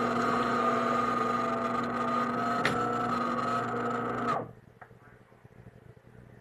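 De'Longhi Magnifica Start bean-to-cup espresso machine running its motor and pump, a steady mechanical hum and whine with one sharp click partway through; it stops suddenly about four seconds in, leaving only a faint low background.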